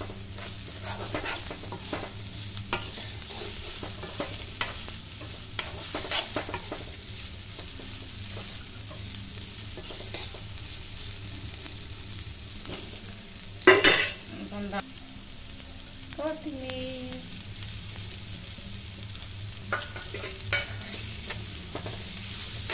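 Sliced bitter gourd (karela) frying in oil with a steady sizzle, while a metal spoon stirs it, scraping and tapping against the pan. There is one louder clank a little past halfway.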